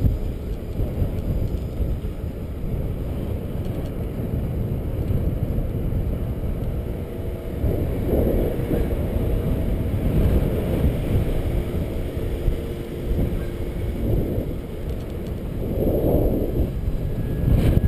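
Wind buffeting the microphone of a camera on a moving bicycle: a loud, uneven low rumble with gusts, and faint riding noise underneath.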